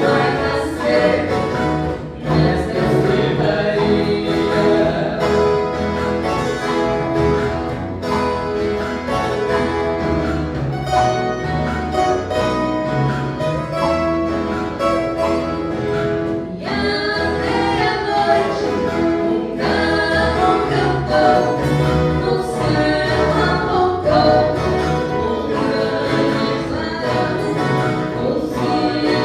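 Viola caipira orchestra playing a Christmas song, with a group of voices singing together over the strummed and plucked violas.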